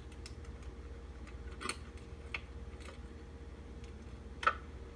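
A handful of sharp, scattered clicks, the loudest near the end, over a faint steady hum: cockpit switches in a Cessna 172 being flipped on before engine start.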